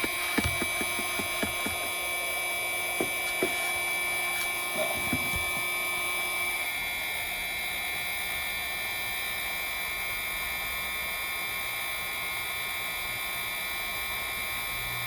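Heat gun running with a steady motor hum, blowing hot air onto a phone's back glass to soften its adhesive. A run of small clicks and taps comes in the first five seconds or so.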